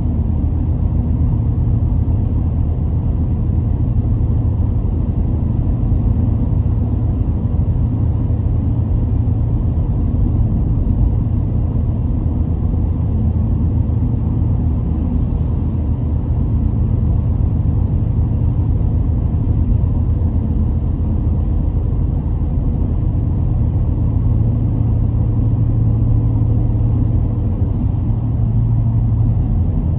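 Car driving along: a steady low rumble of engine and road noise with no sudden events.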